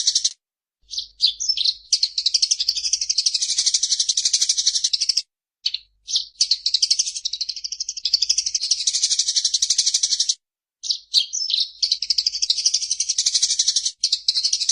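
Eurasian tree sparrow chattering: a fast, rolling run of high chirps, the fighting chatter of a sparrow. Each phrase opens with a few separate notes and then becomes a continuous rapid chatter, breaking off briefly about every five seconds.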